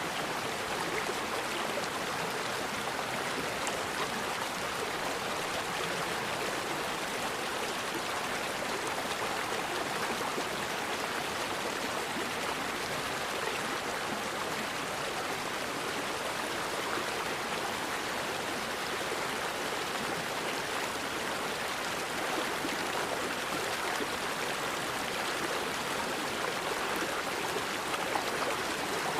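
Forest river flowing, a steady, even rush of running water.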